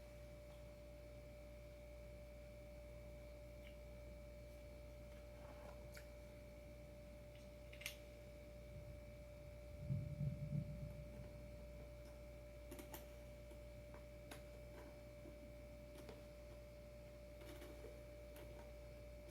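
Quiet room tone with a steady faint high-pitched hum, a few faint light clicks, and a short low rustle of handling about halfway through.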